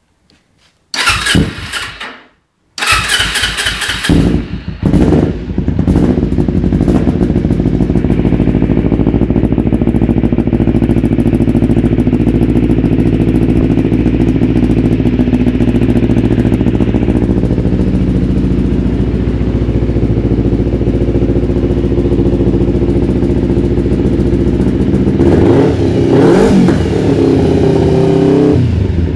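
2008 Kawasaki Ninja 250R's parallel-twin engine through an aftermarket M4 exhaust being started. A short first try comes about a second in, and it catches about three seconds in. It runs unevenly for a few seconds, settles into a steady idle, and gets a brief blip of revs near the end.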